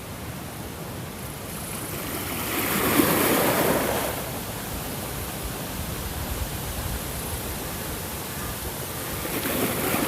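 Ocean waves washing onto a shore: a steady surf hiss, with one wave swelling and breaking about three seconds in and another rising near the end.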